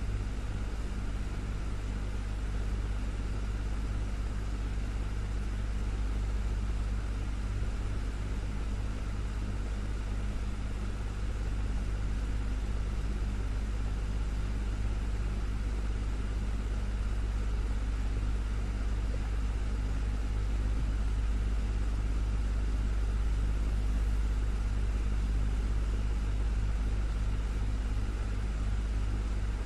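Desktop fan running steadily: an unbroken low hum with a soft, even rush of air over it.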